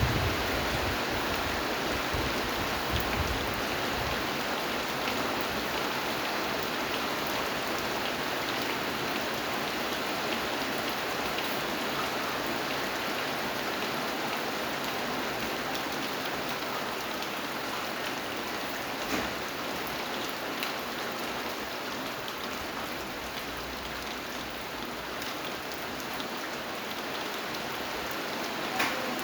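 Steady rain falling: an even hiss with single drops ticking through it. A low rumble fades out in the first couple of seconds.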